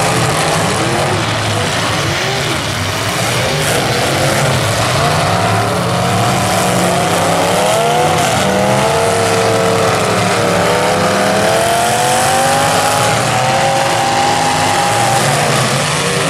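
Engines of several full-size demolition derby cars running hard and revving, their pitch repeatedly rising and falling as the cars push against each other in the mud.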